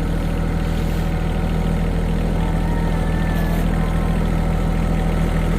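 John Deere 1023E compact tractor's three-cylinder diesel engine running steadily at an even, low speed.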